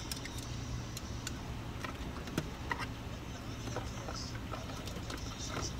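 Car cabin with the engine idling: a steady low hum, with scattered small clicks and taps.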